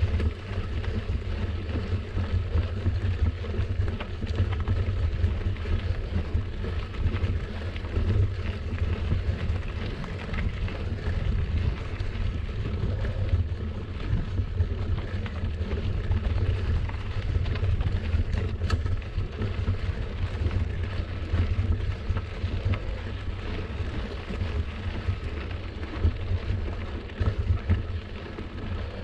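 Wind rushing over the microphone of a camera carried on a moving bicycle, a steady low rumble with the rolling noise of the ride.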